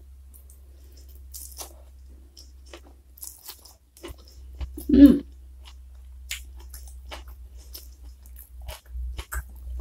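Close-miked chewing of a mouthful of stir-fried genjer (yellow velvetleaf) with rice, with irregular wet crunches and clicks. A short hum from the eater about halfway through is the loudest sound, over a steady low hum.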